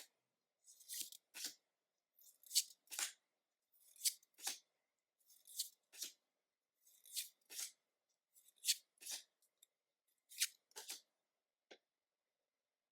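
Pokémon trading cards being handled and slid one past another: a pair of quick papery swishes about every one and a half seconds, seven times over, stopping near the end.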